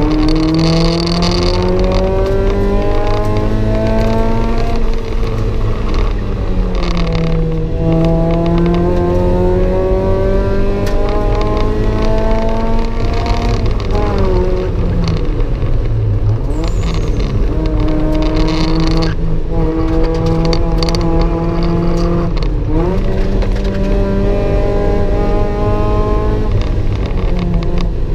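Mazda MX-5's 1.8-litre four-cylinder engine heard from inside the cabin, driven hard on a race track. The engine note climbs repeatedly through the revs and drops at each gear change. About halfway through the revs fall sharply with a quick up-and-down wobble as the car slows, then climb again.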